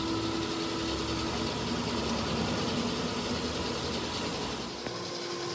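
Machinery running steadily, with a steady hum of a few held tones over an even mechanical noise.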